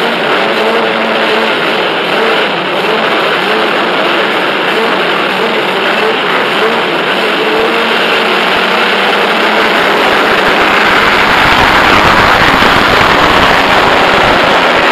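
Motocross motorcycle engines running on the track, their pitch rising and falling as riders work the throttle. The noise grows louder about ten seconds in as bikes come closer.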